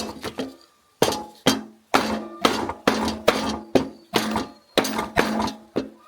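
Metal being struck repeatedly with a hammer, about two to three blows a second at an uneven pace. Each blow rings briefly with a metallic tone.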